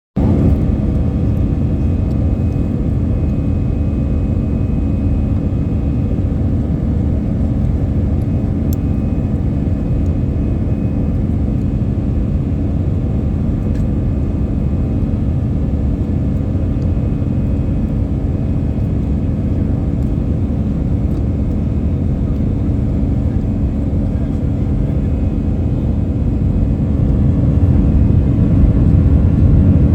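Airliner cabin noise in flight: a steady drone of engines and airflow with a low hum, growing slightly louder near the end.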